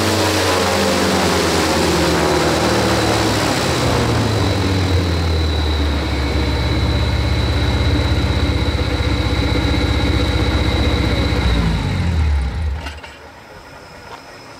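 V8 automotive engine driving a propeller through a geared reduction drive on a test stand. It slows over the first few seconds and runs steadily at low speed with a steady high whine over it, then is shut off about twelve seconds in and winds down to a stop.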